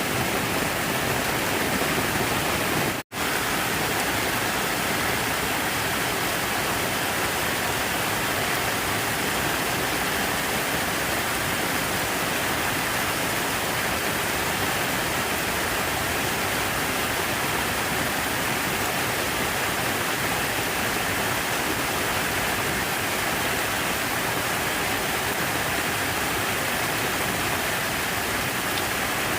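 Steady rush of falling water, an even continuous splashing like a fountain or artificial waterfall. It cuts out to silence for a split second about three seconds in.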